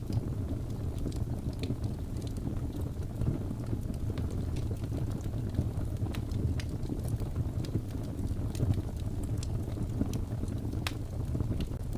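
Wood fire burning: a steady low rumble with scattered crackles and pops throughout, one sharper pop near the end.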